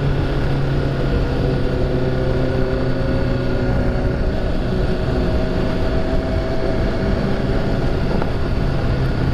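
Motorcycle engine running at a steady pull while riding, its pitch creeping slowly upward, with wind rushing over the microphone underneath.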